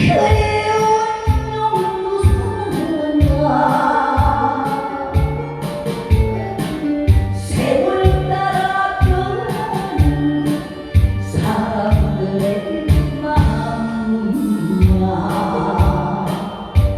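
A voice singing a song into a microphone over a backing track with a steady drum beat.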